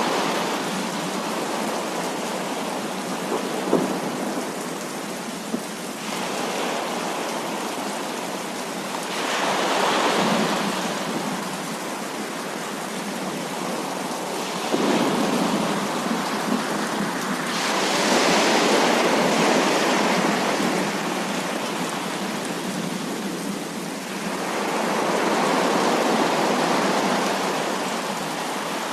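Thunderstorm: heavy steady rain with rolls of thunder that swell louder for a few seconds at a time, several times over.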